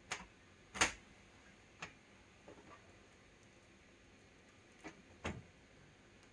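Sharp clicks and light knocks of small tools and parts being handled on a workbench, about six over several seconds. The loudest comes about a second in and another strong one a little after five seconds.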